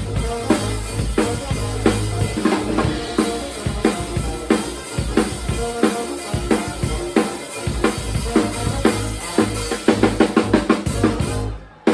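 Live rock band playing, the drum kit loudest, with kick, snare and rimshot hits over a sustained bass line. The song closes with a fast drum fill and stops abruptly near the end.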